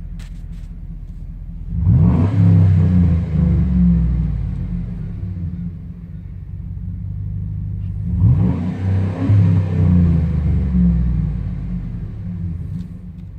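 Pickup truck engine exhaling through a Flowmaster Super 10 muffler, revved twice from idle: each rev climbs quickly, holds for a few seconds and settles back to idle.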